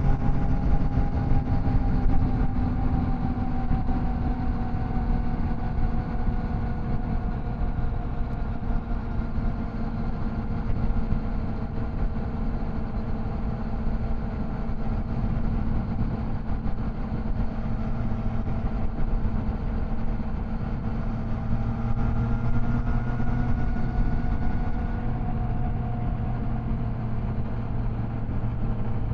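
Triumph Tiger Sport 660's inline three-cylinder engine running steadily under way, its pitch drifting gently up and down with small throttle changes, over wind and road noise.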